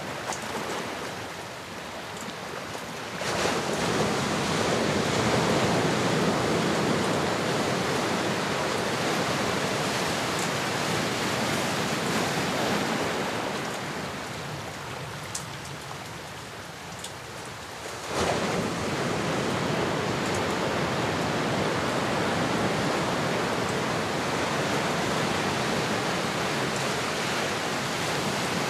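Ocean waves washing onto a shore: a steady rush of surf that surges suddenly about three seconds in and again past the middle, each time easing off slowly.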